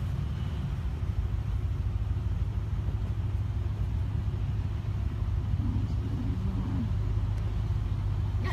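Steady low rumble of a car engine idling, with faint voices in the background for a moment past the middle.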